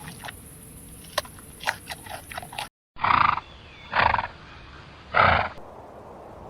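Three short, rough animal calls about a second apart, each a loud breathy burst. Before them are a few scattered clicks and a brief cut in the sound.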